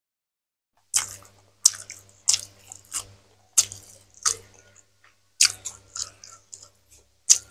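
Close-miked ASMR chewing of a mouthful of food, heard as wet mouth smacks about one to two a second. They start about a second in.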